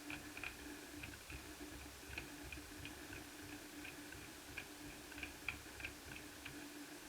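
Faint, irregular light ticks and clicks of a small screwdriver working the screws out of a plastic laptop bottom case, about a dozen over several seconds, over a faint steady hum.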